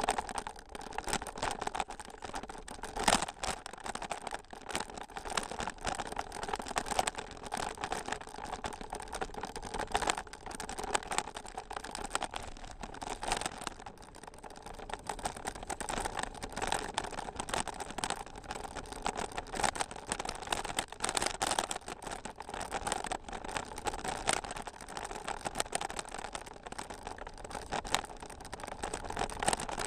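Bicycle rolling over a rough trail, with continuous dense rattling and clicking and a sharper knock now and then.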